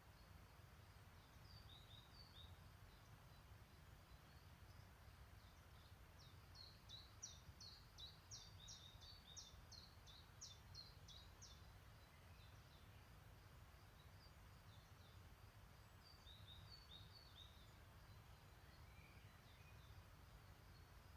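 Faint songbirds calling, with one bird giving a fast run of sharp, high notes about six to eleven seconds in, over a low steady rumble.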